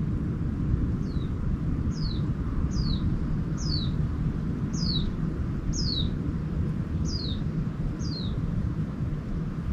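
A bird repeating a short, high, downward-sliding call about once a second, over a steady low rumble.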